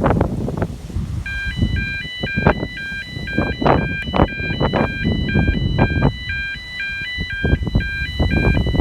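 Level crossing gate alarm sounding its electronic two-tone warble, switching pitch about twice a second over a steady high tone. It starts about a second in and signals that the gate is unlocked and it is safe to cross. Wind buffets the microphone throughout.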